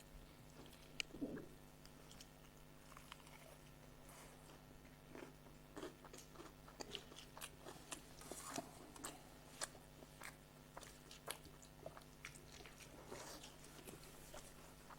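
Faint eating sounds: chewing and scattered small crunches and mouth clicks while a meal of soaked rice with fried sides is eaten.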